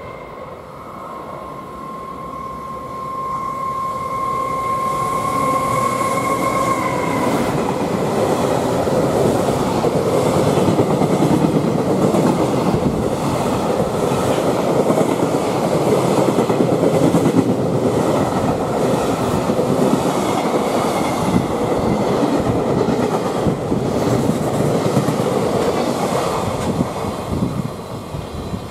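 Container freight train hauled by an EF510 electric locomotive running through the station. A steady high tone sounds for the first several seconds. Then a long string of container wagons rumbles and clatters rhythmically over the rail joints, getting louder as they come by, and it fades near the end as the last wagon passes.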